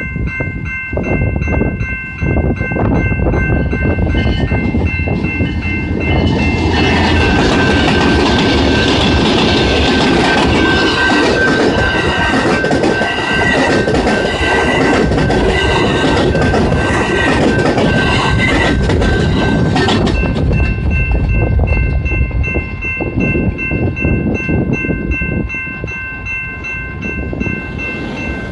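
Amtrak passenger train passing a road grade crossing, the wheels and cars clattering over the rails, loudest for about fourteen seconds in the middle and easing off near the end. A steady high warning tone rings throughout, typical of the crossing's warning bell.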